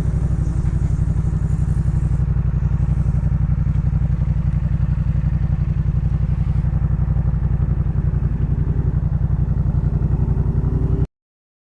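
Yamaha MT-07's parallel-twin engine idling steadily through a Jeskap K4 full aftermarket exhaust, with an even, throbbing exhaust pulse. The sound cuts off suddenly near the end.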